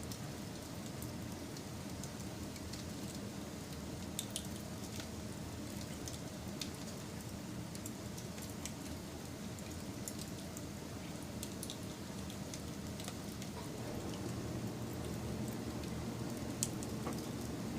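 Wood fire burning: scattered sharp crackles and pops over a steady low rush of flame, the rush growing a little louder about three-quarters of the way through.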